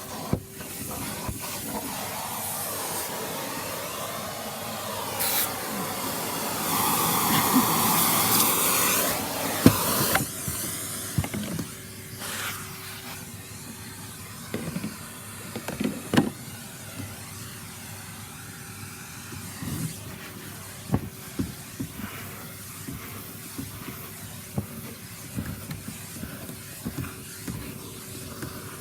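Vacuum cleaner running as its nozzle is worked over the car's interior. For about the first ten seconds it is louder and its pitch wavers as the airflow changes; then it settles to a quieter steady hum with scattered clicks and knocks from the nozzle and sucked-up debris.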